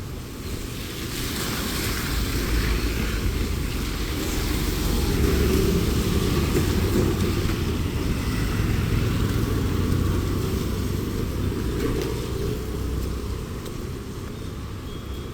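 Road traffic passing by: vehicle engines and tyre noise, swelling about a second in, loudest in the middle and easing off toward the end.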